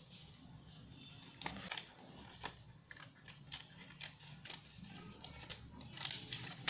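Scissors cutting through a sheet of coloured paper, a run of irregular crisp snips.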